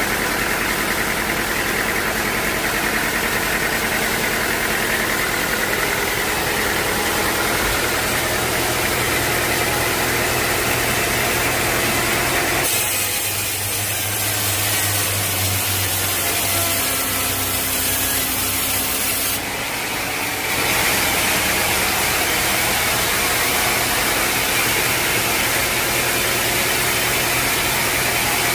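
Sawmill machinery running steadily, with an abrupt change in its sound from about 13 to 20 seconds in.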